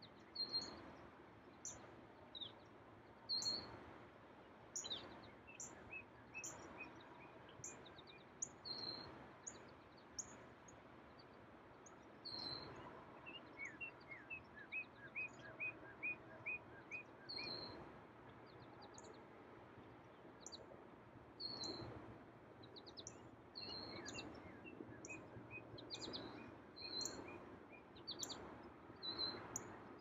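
Several songbirds calling and singing: short high chirps repeated every second or so throughout, with a run of about ten quicker notes a little before the middle, over a faint steady outdoor rush.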